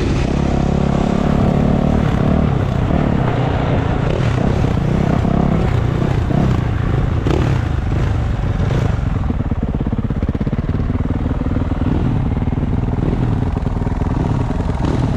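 Dirt bike engines running steadily, with the engine pitch shifting in the first few seconds.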